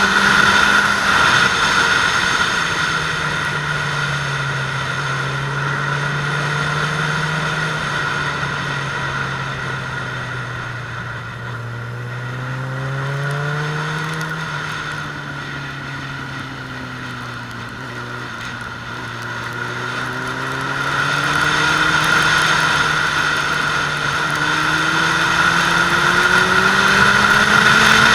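Suzuki Bandit 600S inline-four engine heard onboard at speed, with steady wind rush over the microphone. The engine note eases off and drops in pitch through the middle, then climbs again as the bike accelerates near the end.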